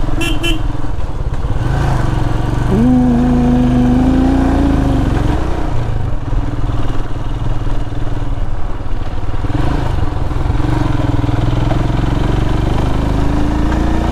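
Royal Enfield Himalayan's single-cylinder engine running steadily while riding. A short pitched tone rises and then holds for a couple of seconds, about three seconds in.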